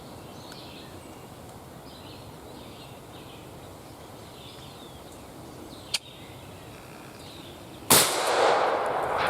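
A single 12-gauge shotgun shot fired at a turkey about eight seconds in, sudden and loud, with a long wash of noise after it. Before it, faint bird calls over a quiet outdoor background, and one sharp click about six seconds in.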